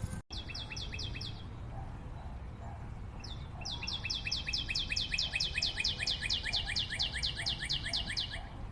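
A forest bird calling in rapid trains of short, high, falling notes, about eight a second: a brief run near the start, then a long unbroken run from about three and a half seconds in until near the end.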